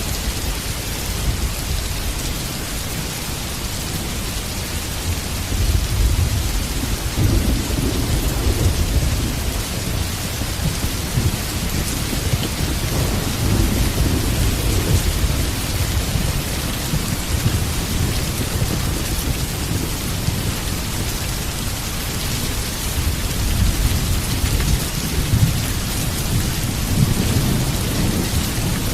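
Heavy rain falling steadily, with low rolling thunder that swells in about six seconds in and rumbles on, building again near the end.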